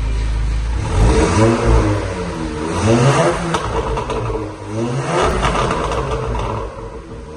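Engine exhaust revved several times, each rev rising in pitch and falling back toward idle.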